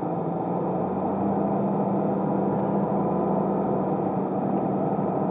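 A car driving, heard from inside the cabin: the engine's steady hum under an even rush of tyre and road noise.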